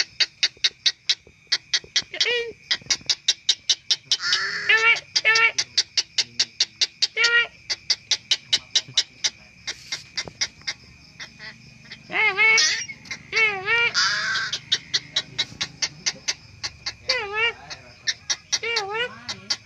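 A bird's short arched calls, single or in pairs, come at intervals over a fast, even ticking of about four clicks a second and a faint steady high tone.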